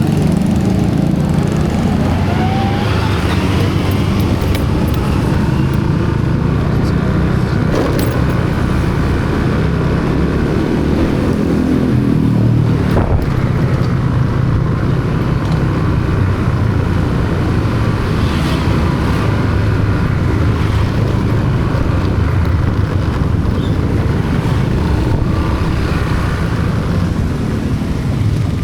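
Steady low rumble of a motor vehicle on the move in road traffic, engine and road noise running throughout, with a brief knock about thirteen seconds in.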